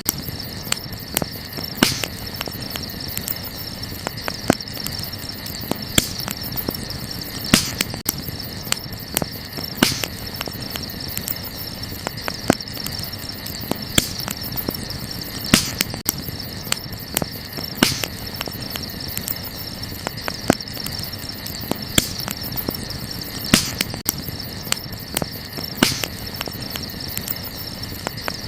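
Wood campfire crackling, with irregular small snaps and a sharper pop every second or two. Crickets chirr steadily and high-pitched behind the fire.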